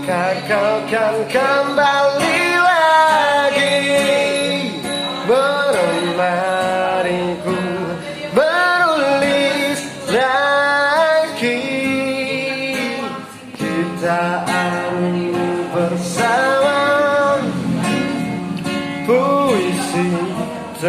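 A voice singing a melody over acoustic guitar, with gliding, held notes.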